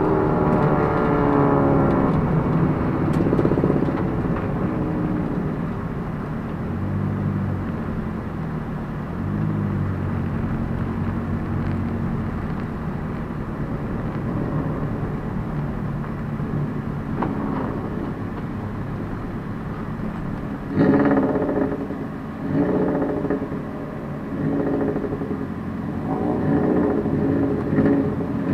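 Toyota Prius race car's stock 2ZR-FXE 1.8-litre four-cylinder engine heard from inside the cabin. Its note falls as the car slows in the first two seconds, then runs low and steady, with several short rises in engine note over the last several seconds.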